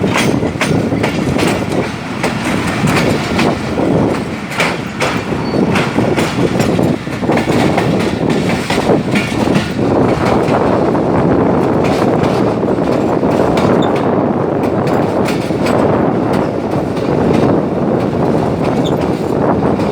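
Lasani Express passenger train running on the line, a loud steady rush of wheels on rails with repeated clacks over the rail joints.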